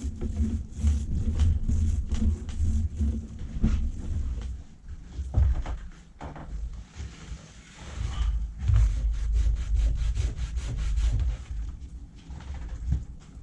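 Painting strokes on a boat's cockpit: a rubbing, rumbling noise of the applicator worked back and forth over the surface, coming in bouts of a few seconds with small knocks between them.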